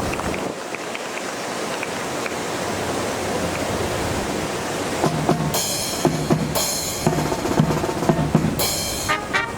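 Strong wind buffeting the microphone, then about five seconds in a marching band's drums strike up a fanfare: bass and snare drum strokes with three cymbal crashes, and brass chords coming in at the very end.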